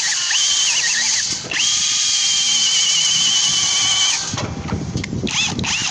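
Power drill spinning a rotary chimney-sweep brush on rods inside a sandwich flue: a high whine with squealing that wavers in pitch, stopping about four seconds in, followed by knocks and rattles.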